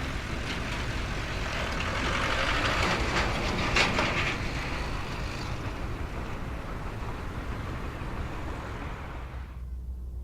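A train passing on the railway: a steady rumble with a noisy hiss, loudest about four seconds in, with the hiss falling away near the end.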